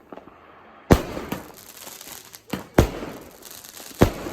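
Fireworks exploding: a sharp bang about a second in, another pair of bangs near three seconds and a third near the end, with smaller pops and crackling between.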